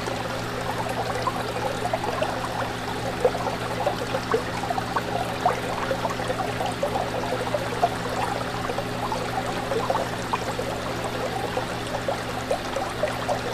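Fish tank water bubbling and trickling steadily, with many small pops of bubbles, over a constant low hum.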